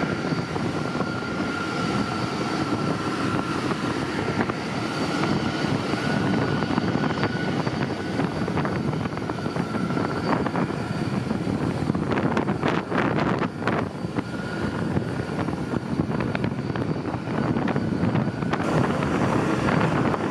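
Jet aircraft engines running: a steady broad roar with a thin high whine held over it. A short patch of clicks or rattles comes about twelve to fourteen seconds in.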